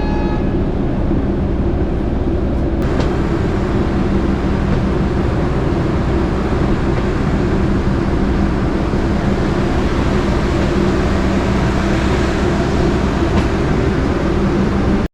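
Passenger train coach running along the track: a steady, loud rumble of wheels on rails with a low hum underneath.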